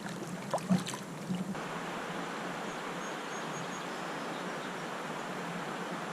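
Steady rush of river water flowing past the kayak, with a few short clicks and knocks in the first second or so.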